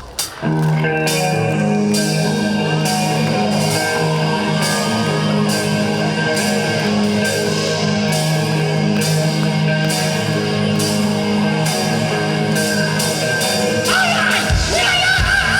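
Live rock band starting a trot song in a rock arrangement: electric guitar and bass holding long chords over regular cymbal strikes. Heavier drums and a bending lead line come in near the end.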